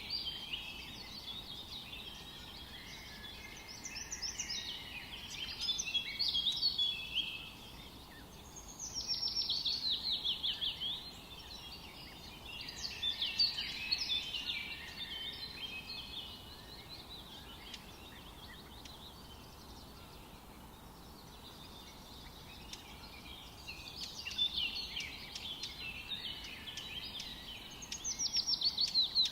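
Songbirds singing in a forest: several separate phrases of quick chirps and trills over a faint steady background hiss. Twice, once around ten seconds in and again near the end, a bird gives a rapid run of falling notes.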